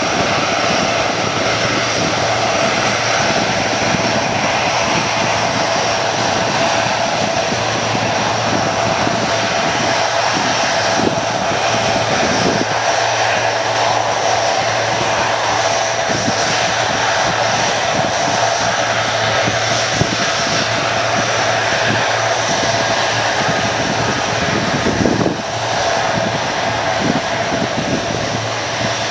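US Navy C-130 Hercules taxiing, its four Allison T56 turboprop engines running steadily: a loud propeller drone with a high turbine whine above it.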